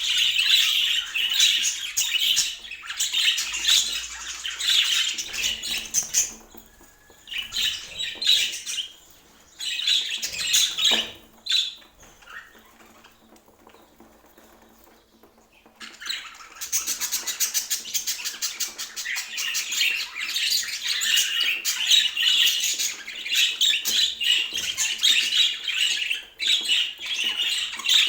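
Budgerigar chatter and warbling, a fast, busy stream of chirps and squawks. It breaks into scattered calls about six seconds in, falls nearly quiet from about twelve to sixteen seconds, then resumes steadily.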